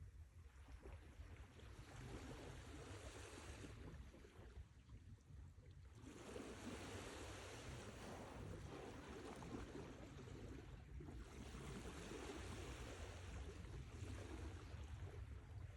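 Sea waves washing on a shore, a rushing hiss that swells and fades, with a lull about four seconds in and a shorter one near eleven seconds.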